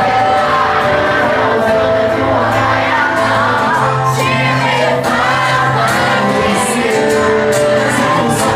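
Live band performance with a lead singer over a steady bass, the audience shouting and singing along.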